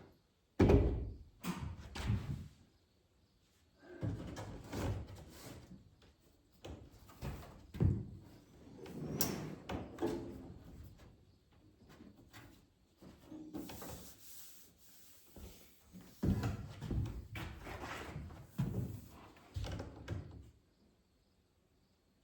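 Irregular knocks, clunks and scrapes of a microwave oven's casing and parts being handled and pried at while it is taken apart, the loudest thump about a second in.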